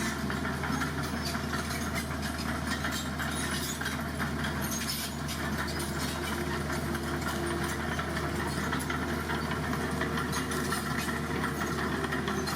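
Dump truck's diesel engine running steadily, with a faint higher tone that comes and goes in the second half.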